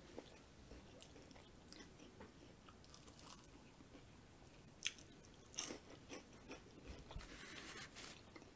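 Faint close-up chewing of deep-fried cake-batter balls, soft mouth clicks and bites, with two short crisp clicks about five seconds in.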